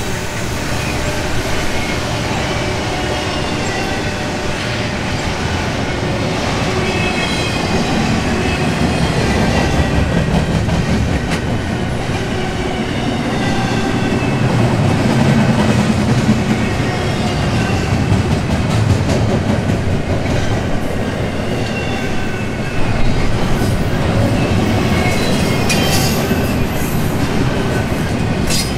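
Freight train of intermodal container cars rolling past, steel wheels clattering over the rails in a steady loud rumble, with faint high-pitched wheel squeal.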